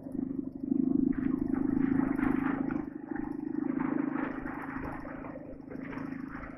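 Heavy Soviet boxer-twin motorcycle engine (Ural or Dnepr) running under way, loudest about a second in and then easing off.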